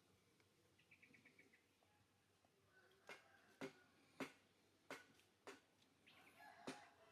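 Faint, quick high chirps from a baby monkey, a run of about six in a row, followed by a scatter of sharp clicks and short squeaks.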